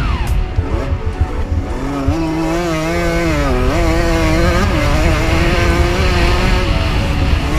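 Motocross bike engines revving up and down as the bikes race, with a second, lower-pitched engine coming in about two seconds in. A low rumble of wind on the microphone runs underneath.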